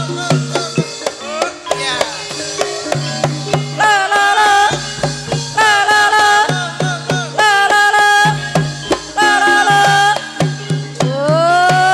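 Banyumasan gamelan playing gending ebeg: hand-played kendang drum strokes in a steady rhythm under struck bronze melody notes. From about four seconds in, a high voice sings long notes that bend and slide.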